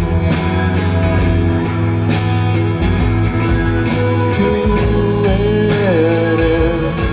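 Live rock band playing between sung lines, with sustained pitched notes over a steady drum beat; a held note bends down in pitch near the end.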